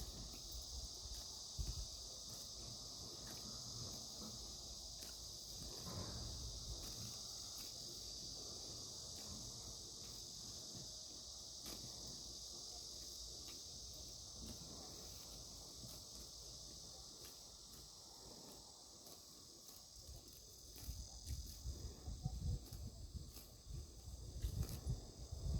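Crickets chirring steadily in a high, even band, with irregular low thuds and rustles that grow busier in the last few seconds.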